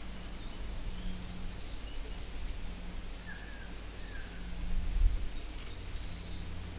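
A few faint bird chirps, short falling notes, over a steady low background hum.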